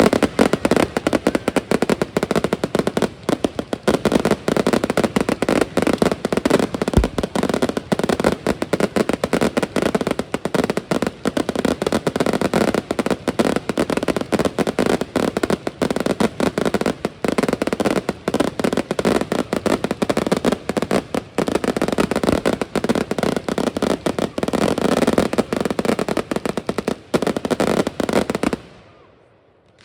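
Firework display: a dense, rapid barrage of bangs and crackling with hardly a gap. It stops abruptly about a second before the end.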